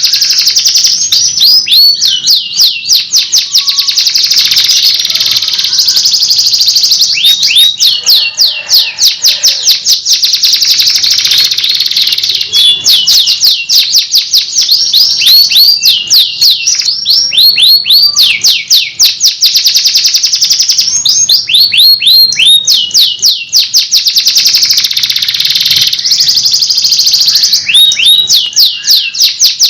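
Canary singing a long, loud, nearly unbroken song of fast rolling trills and rapid runs of falling notes.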